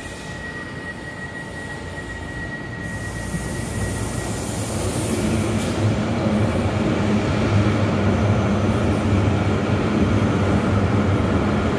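ICE high-speed electric train pulling into the station and rolling slowly past alongside the platform. It grows louder over the first half as it arrives, then runs on as a steady low hum with the rumble of its wheels.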